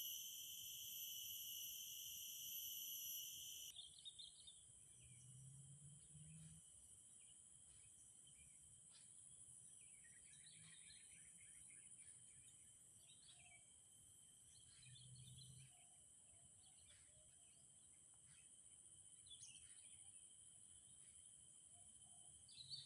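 Faint outdoor ambience of insects buzzing steadily at a high pitch, the buzz changing tone about four seconds in. Scattered short bird chirps run through it, with a brief chattering call about ten seconds in.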